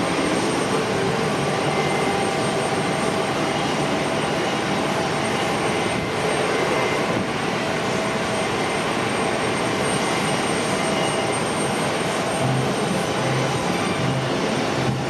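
Jet airliner engines running steadily: a continuous broad roar with a faint whine over it. A low pulsing hum, about two pulses a second, joins about twelve seconds in.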